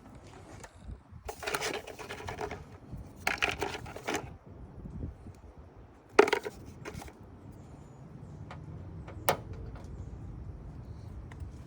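Plastic engine-bay cover being handled and fitted back into place: two short stretches of scraping and rattling plastic, then a sharp knock about six seconds in and a single click a few seconds later as it seats.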